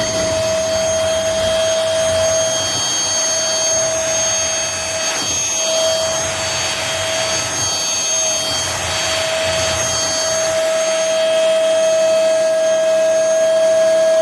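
MBYULO cordless stick vacuum running with a steady high whine over rushing air. It is switched off at the end, and the whine falls in pitch as the motor winds down.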